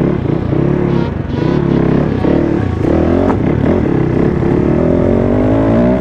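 Dirt-bike engine running and being revved, its pitch rising and falling repeatedly.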